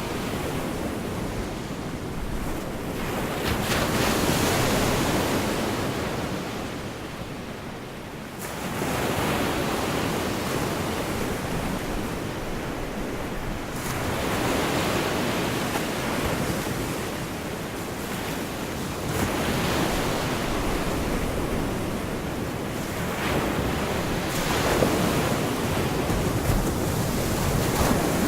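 Gulf of Mexico surf: waves breaking and washing up the beach in a slow rhythm, swelling about every five seconds.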